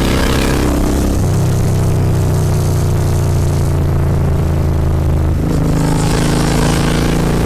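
Royal Enfield Continental GT 650's parallel-twin engine through Red Rooster aftermarket exhausts, heard while riding under way. The engine note holds steady, then changes about five seconds in and grows brighter toward the end.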